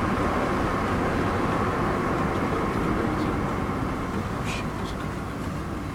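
Steady running noise of a motor vehicle, with a low rumble, easing off slightly near the end.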